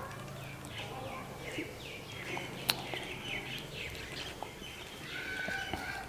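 Small birds chirping: a run of quick, falling chirps, a few a second, then a few steadier, higher notes near the end, with one sharp click in between.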